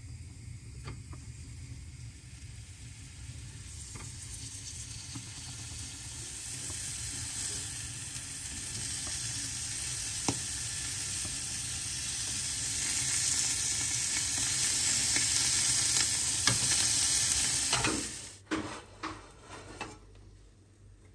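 Food sizzling as it fries in a pan, growing louder and then cutting off suddenly near the end, followed by a few light knocks of kitchenware. A steady low hum runs underneath.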